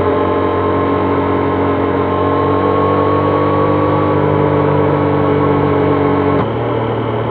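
Triumph Trident 660's inline three-cylinder engine running under way, its pitch creeping slowly upward, then dropping suddenly with a dip in level near the end.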